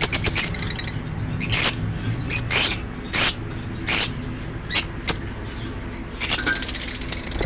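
Fischer's lovebirds in a colony giving short, shrill squawks about once a second, with a quick rattling chatter of calls near the end, over a steady low hum.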